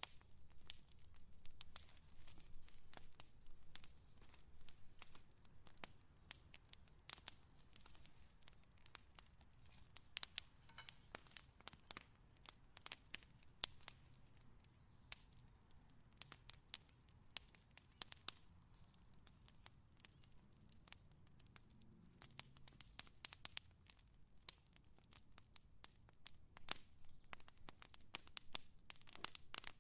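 Fire crackling: a continuous run of irregular sharp pops and snaps, a few of them louder than the rest.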